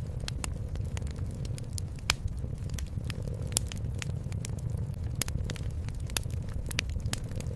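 Wood fire crackling with irregular sharp pops, the sharpest about two seconds in, over a steady low rumble of a cat purring.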